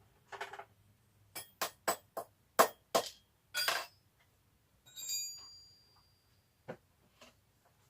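Metal hand tools clinking and knocking: a spanner working the nut and bolt of a Goped's fuel tank mount, with about seven sharp, irregular clicks, then a short ringing ping about five seconds in and two fainter clicks near the end.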